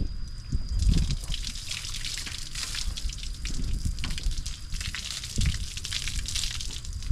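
Water splashing and dripping, an uneven crackle of drops with a few dull low knocks.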